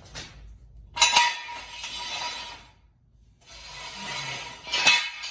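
Two bursts of metallic mechanical rattling and clinking from tool work on a car, each about a second and a half long and each opening with a sharp knock.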